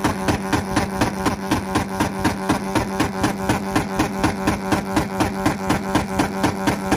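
A tuned import car's engine held on a two-step launch limiter at a steady high rpm. It pops and crackles at an even rhythm of about five bangs a second.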